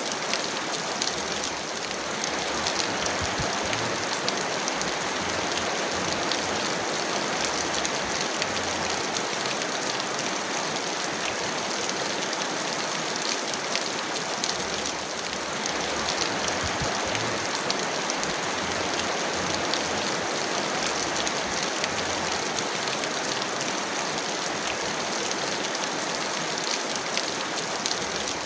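Heavy rain falling steadily, a dense patter of individual drops over an even hiss.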